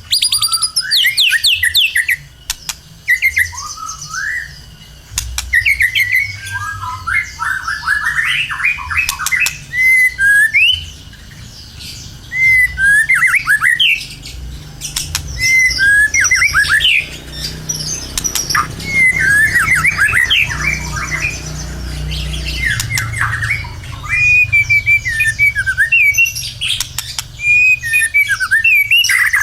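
White-rumped shama (murai batu) in full song: a nearly unbroken stream of varied, quick whistled phrases with sweeping notes, harsh chattering and sharp clicks. A steady low hum runs underneath.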